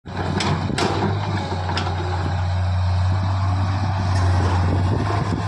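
Heavy diesel engine of earthmoving machinery running steadily, with three sharp clanks in the first two seconds.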